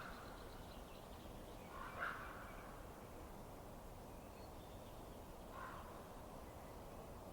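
A bird calling, short harsh calls about two seconds in and again, fainter, a little past the middle, over a faint steady noise.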